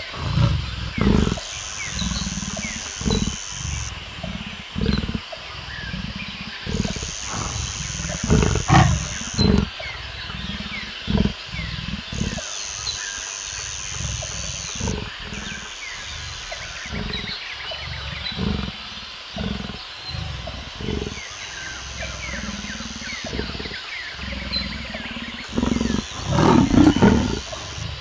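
Leopard calling: a long run of short, deep, rasping grunts and growls, irregularly spaced, with a louder cluster near the end.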